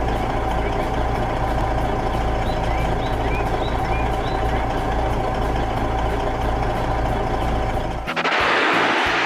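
Heavy truck engine running with a steady low rumble, and a short loud hiss about eight seconds in.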